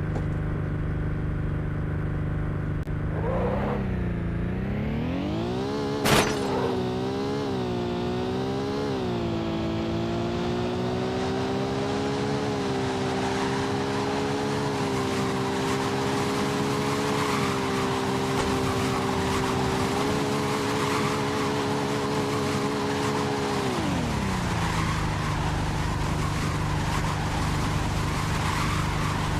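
Car engine revving up and down, with one sharp crash about six seconds in. The engine then holds a high, steady pitch and drops back to a low idle near the end.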